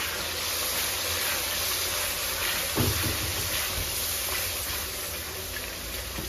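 A masala of browned onion, yogurt and ground spices, with freshly added nihari masala, sizzling steadily as it fries in a pot. There is a soft knock about three seconds in.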